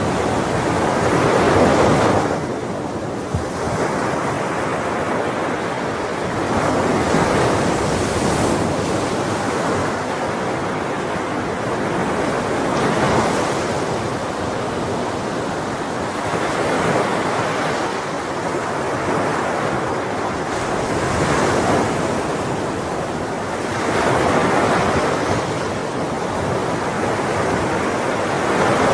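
Ocean waves breaking and washing ashore in a continuous surf, swelling and easing every few seconds.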